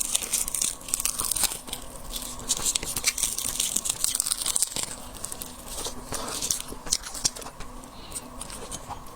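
Shrimp shells being cracked and peeled apart by hand close to the microphone: a steady run of small crackles and tearing sounds.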